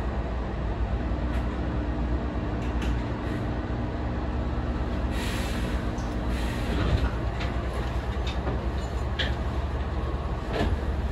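Hankyu electric train rumbling at low speed inside the cab as it comes to a stop at a terminus platform. A steady hum runs under it and cuts off about seven seconds in, and a few light clicks follow.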